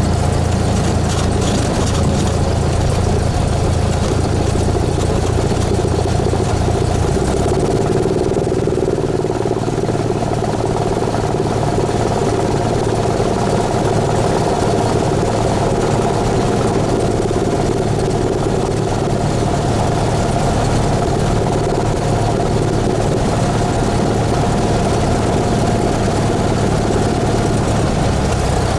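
Cessna 172S's four-cylinder Lycoming engine and propeller running steadily, its note changing about seven seconds in.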